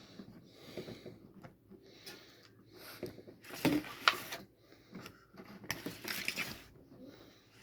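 Paper rustling and crinkling as it is handled, in a few short bursts, the loudest about three and a half and six seconds in.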